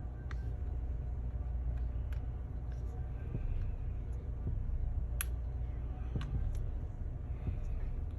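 Scattered light clicks and taps of small parts and tools being handled on an opened laptop, with one sharper click about five seconds in, over a steady low hum.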